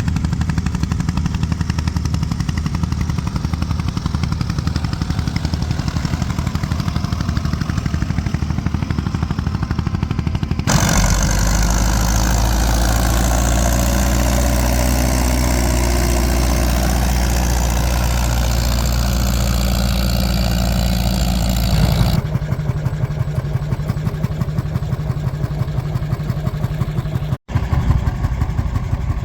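Old tractor engines running steadily, in three stretches that change abruptly about 11 and 22 seconds in; the middle one is heavier and deeper. A brief dropout comes near the end.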